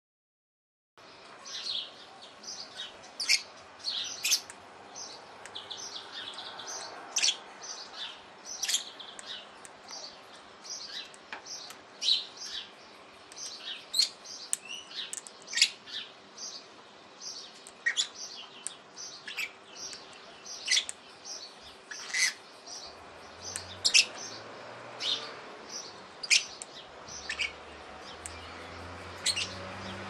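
Birds chirping: short, sharp, high chirps repeated every half-second or so over a faint steady background, with a low rumble coming in near the end.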